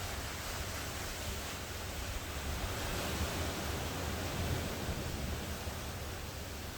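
Ocean surf washing onto the shore: a steady rush that swells a little in the middle, with a low rumble underneath.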